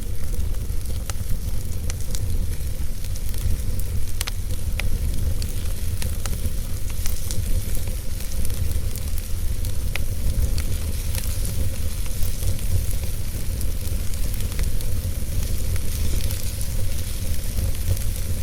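Wood fire burning in a fireplace: a steady low rumble and hiss with scattered sharp crackles and pops at irregular moments.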